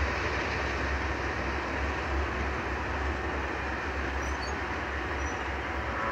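Steady rumble and rush of a freight train moving away from the crossing, gradually fading.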